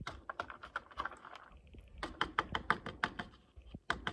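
Quick, irregular clicking and tapping of a spoon against a bowl while stirring crushed peanuts, several light clicks a second in short clusters.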